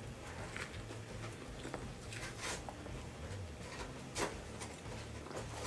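A man chewing a mouthful of vegan burger, with a few soft wet mouth clicks, the loudest about four seconds in, over a low steady hum.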